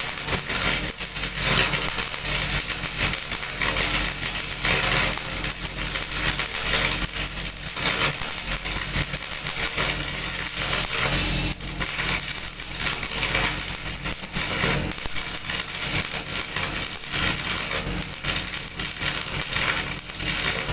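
Engine-driven construction machinery running steadily with a continuous clattering rattle.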